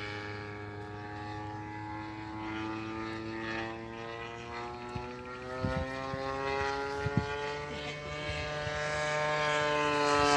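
Gasoline-engine radio-controlled model airplane in flight, its propeller engine running with a buzzing note that slowly rises and falls in pitch and grows louder near the end as it comes closer. A couple of faint knocks sound about halfway through.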